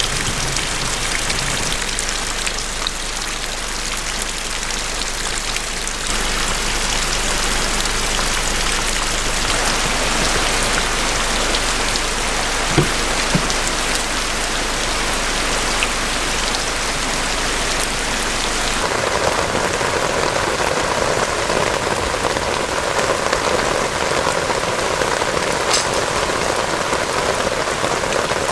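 Heavy rain falling steadily. The sound of the rain shifts about six seconds in and again about two-thirds of the way through, and two sharp taps come near the middle.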